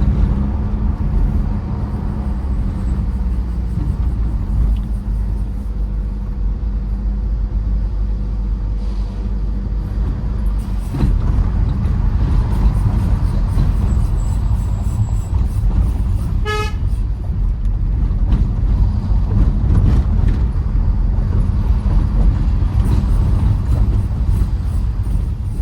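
Tata Safari Storme's 2.2-litre diesel engine running with steady road noise while driving. A single short horn toot sounds about two-thirds of the way through.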